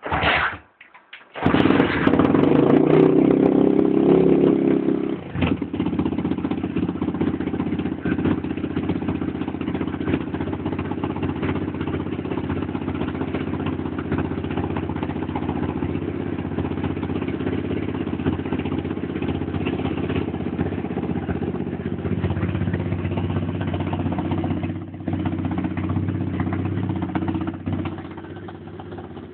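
125cc Lifan single-cylinder four-stroke pit bike engine starting: a brief catch that dies, then it fires about a second and a half in and runs fast for a few seconds before settling to a steady idle, dipping briefly near the end.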